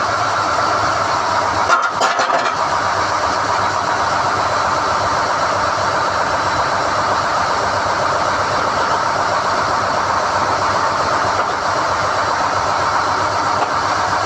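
Core drilling rig running steadily during the pull of NQ drill rods, a loud even machine drone. A short clatter comes about two seconds in.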